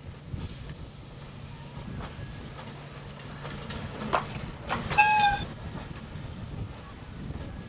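Electric train running, with a low steady hum and a few sharp wheel clicks, then a short horn blast, a single steady tone held for about half a second, around five seconds in.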